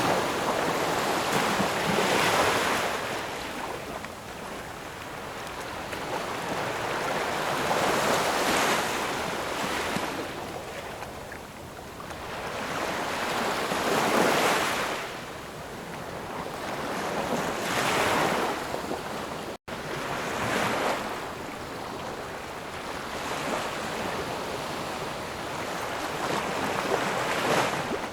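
Ocean waves washing in on the shore, each surge swelling up and falling back every four to six seconds. The sound cuts out for an instant about two-thirds of the way through.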